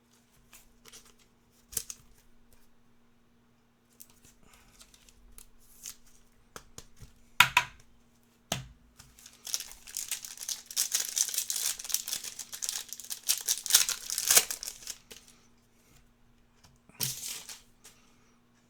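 A trading-card pack wrapper being torn open and crinkled. A few scattered clicks and a sharp snap come first, then a dense stretch of crackling tearing in the middle and a short burst near the end.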